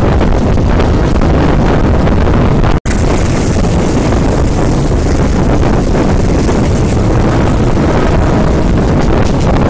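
Wind buffeting the microphone over the steady rumble of a moving passenger train. The sound cuts out for a split second about three seconds in and comes back with more hiss.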